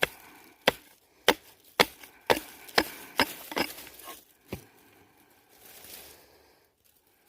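Hand digging tool chopping into soil and roots to dig up a ginseng root: about nine sharp strikes, roughly two a second, stopping about four and a half seconds in.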